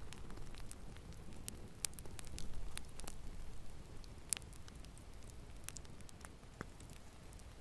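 Wood fire burning in a fireplace: a low steady rumble of the flames with irregular crackles and sharp pops, a few louder pops in the first half.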